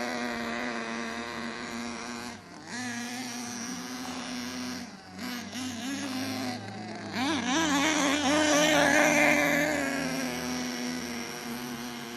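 Small nitro RC engine in an HPI Savage monster truck running as the truck drives around, its pitch rising and falling with the throttle. It grows louder as the truck comes nearer about two-thirds of the way through, then fades. The high-speed needle has just been turned in a little.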